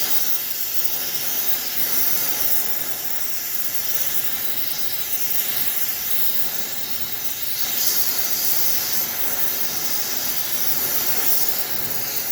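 Gas heating torch flame hissing steadily as it heats the steel plow frame before it is hammered straight.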